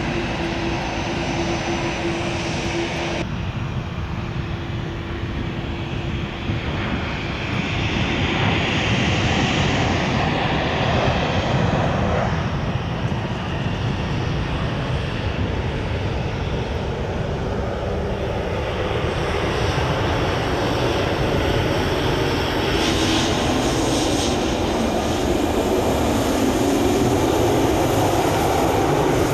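Airliner jet engines roaring steadily as aircraft move past. The sound changes abruptly about three seconds in, and the roar swells again in the latter half.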